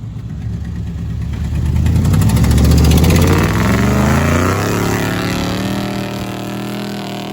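A 1996 Dodge Ram 2500's 5.9 V8, still cold, revs up over a couple of seconds, then holds at a steady higher speed before easing off near the end.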